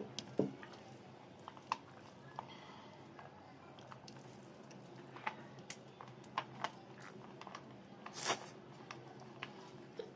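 Close-miked mouth sounds of a person eating rice with fried fish and vegetable dishes: chewing with scattered wet clicks and smacks. A louder, longer smack comes about eight seconds in.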